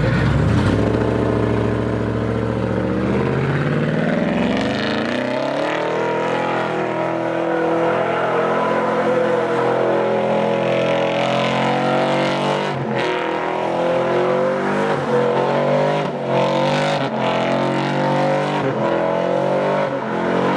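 A car engine running at low revs, then accelerating: its pitch climbs about four seconds in and stays high, wavering up and down.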